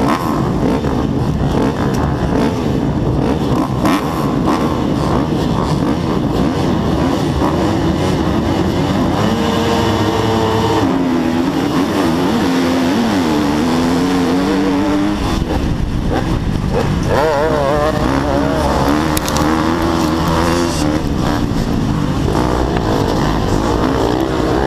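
KTM 250 SX-F four-stroke single-cylinder motocross engine revving hard, its pitch repeatedly climbing and dropping as it works through the gears, with other motocross bikes running close by.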